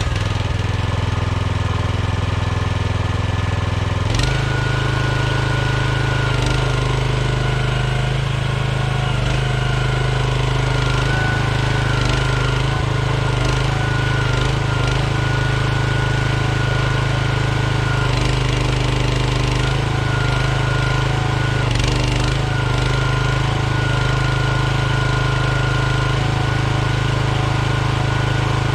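Mini excavator engine running steadily just after being started, getting louder about four seconds in, with a high whine that comes and goes over it.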